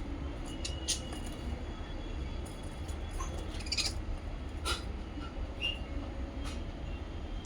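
Small pet parrots giving a few short, sharp chirps over a steady low rumble.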